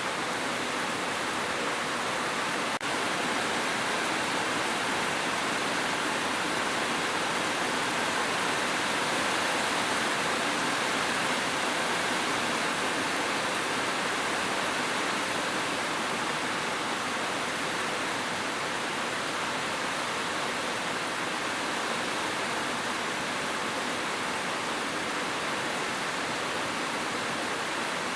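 Steady rain making an even hiss with no separate drops or rhythm, and one brief dropout about three seconds in.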